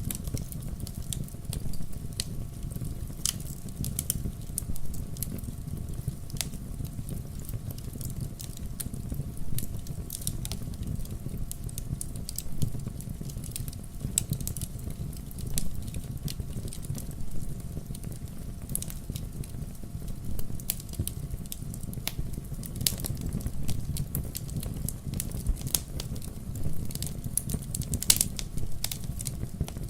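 Wood logs burning in a fireplace: irregular sharp crackles and pops over a steady low rumble of the flames, with one louder pop near the end.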